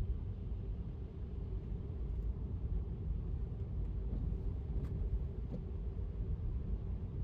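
Electric car driving on a wet road: a steady low rumble of road and tyre noise, with a faint tick or two about five seconds in.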